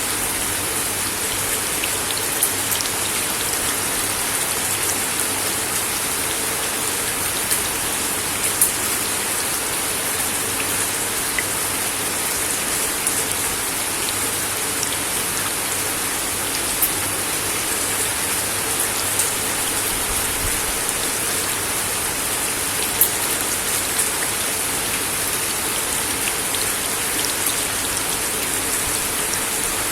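Steady rain falling on a wooden deck, an even hiss with scattered louder individual drops ticking on the boards.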